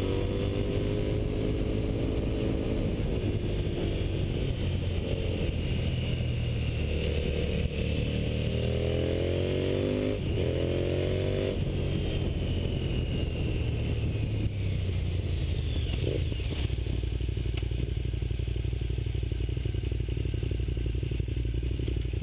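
Motorcycle engine heard from on the bike while riding, its revs climbing and falling with the throttle and gear changes. It pulls up twice in quick succession, with a break between, before the middle, then runs lower and steadier for the rest.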